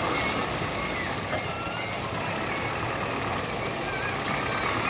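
Heavy truck running with a steady, dense engine and road noise, with faint wavering voices or calls above it.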